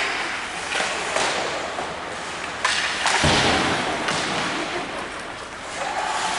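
Several sharp thumps and knocks from play in a team game, echoing in a large hall, over a steady background of voices. The loudest thump comes about three seconds in.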